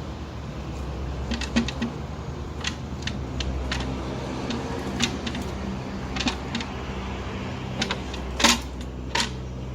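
Irregular clicks and knocks of parts and hand tools being handled and fitted in a car's engine bay, one sharper knock about eight and a half seconds in, over a steady low hum.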